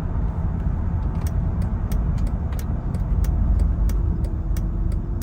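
Inside the cabin of a moving 2006 Mercedes-Benz SLK350: a steady low rumble of road noise and the 3.5-litre V6. A light, regular ticking sounds about three times a second from about a second in.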